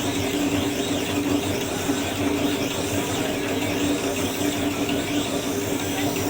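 Scissor-grinding machine running steadily: a constant motor hum under a grinding rasp, with faint squeals as the blade is worked against the wheel.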